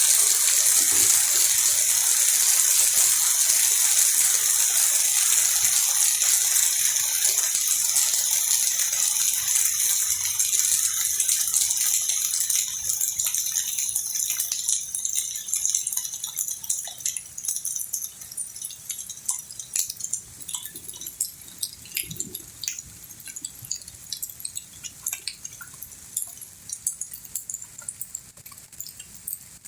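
Heavy rain falling with a loud, steady hiss that eases off about halfway through. It leaves scattered drips and taps.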